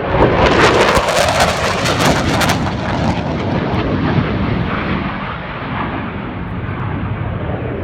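Eurofighter Typhoon fighter jet passing, its twin turbofans coming in suddenly loud with a harsh crackle for the first two and a half seconds, then settling to a steady jet rumble that eases slightly.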